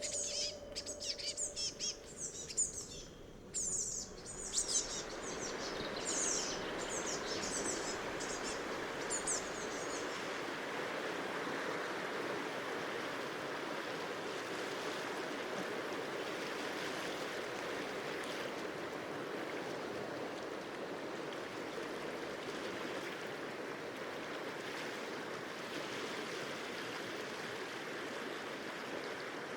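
Cetina River water rushing steadily, coming in about four seconds in. Over the first ten seconds a songbird chirps over and over in quick, high, falling notes.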